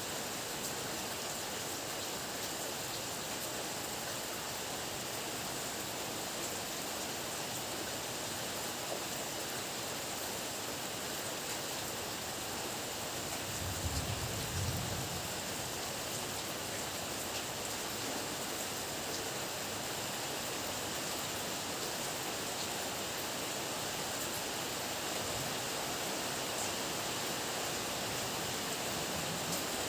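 Heavy rain falling steadily, a dense even hiss, with a short low rumble about halfway through.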